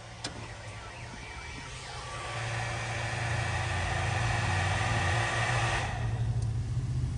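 Deep bass played through a semi truck's car-audio system of eight 12-inch subwoofers, growing louder about two seconds in.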